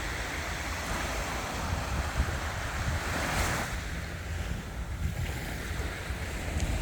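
Sea waves washing on a shore, with wind on the microphone making a low rumble. One wave's wash swells about three seconds in and cuts off half a second later.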